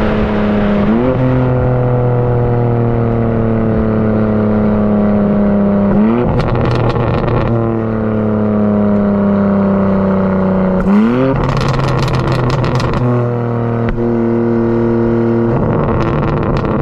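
BMW G82 M4's twin-turbo straight-six exhaust on the overrun: the engine note falls slowly, jumps up in pitch in three quick sweeps like rev-matched downshifts, and crackles and pops after each.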